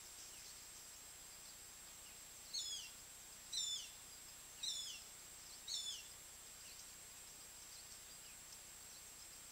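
A bird calling four times, about a second apart, each call a short, quick falling whistle, over a faint steady hiss and a thin high-pitched whine.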